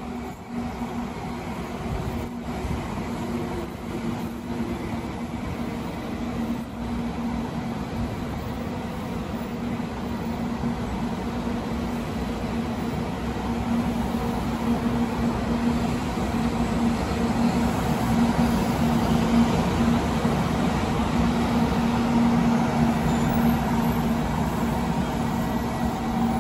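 700 series Rail Star Shinkansen train pulling slowly into the station, its running gear giving a steady low hum that grows gradually louder as the cars pass close by.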